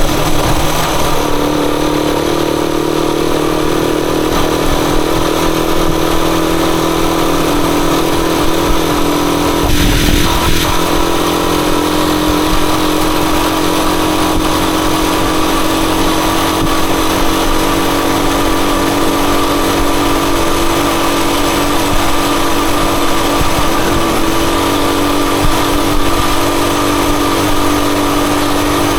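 Rusi Chariot 175 motorcycle engine running at a steady, even pitch, with a brief break in the sound about ten seconds in.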